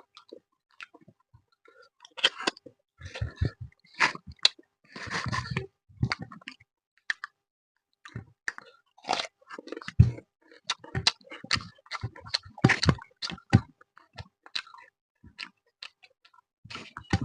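Close-up chewing and mouth sounds of someone eating fish with rice: irregular wet clicks and smacks. There is a louder low thump about ten seconds in.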